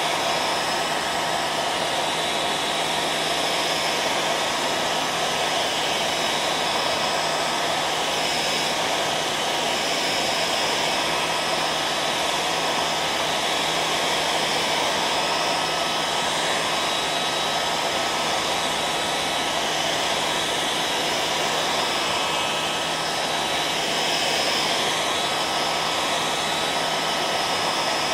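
Electric hairdryer running steadily: an even blowing rush with a faint steady whine from the motor.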